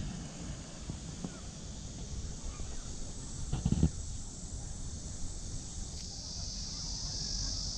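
A steady, high-pitched insect chorus that swells about six seconds in, over a low outdoor rumble, with a brief thump near the middle.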